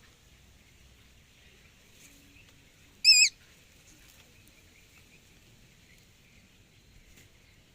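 A bird gives one short, loud, high call with a quick wavering pitch, about three seconds in, over a faint steady high hiss of background birds or insects.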